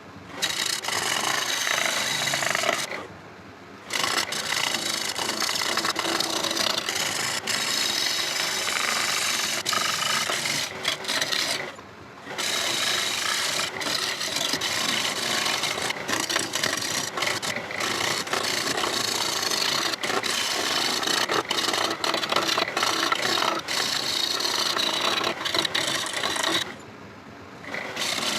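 Turning tool cutting a spinning rosewood bowl blank on a lathe: a continuous rough scraping hiss of the tool shearing hard wood, stopping briefly three times when the cut pauses.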